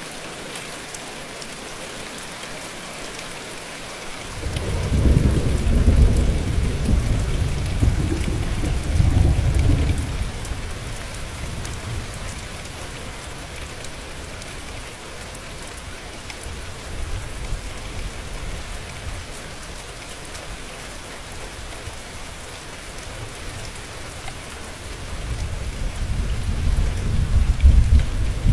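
Steady rain with two rolls of thunder. A low rumble starts about four seconds in and fades over the next six seconds, and another builds near the end.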